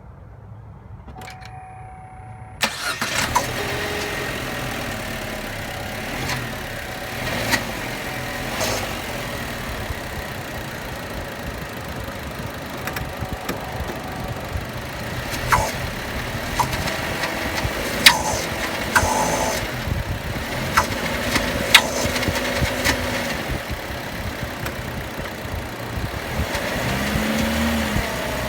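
2013 Chevy Sonic's 1.4-litre turbocharged four-cylinder engine starting about three seconds in, then running with its pitch rising and falling and sharp clicks here and there. These are the noises tied to the turbo kicking in, the sign of a failing turbocharger.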